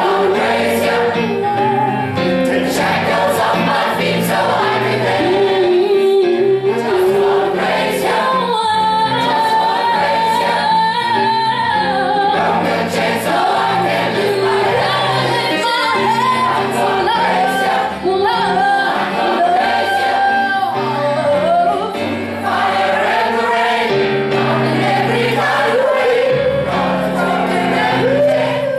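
A choir singing a gospel song over sustained low accompaniment.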